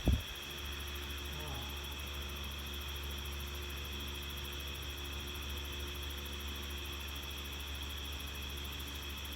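Electric fan running with a steady low hum and a faint, steady high whine.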